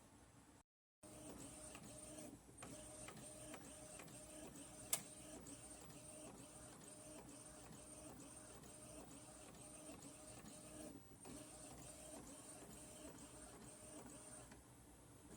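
Faint machine sound repeating evenly, about two beats a second, with a single sharp click about five seconds in.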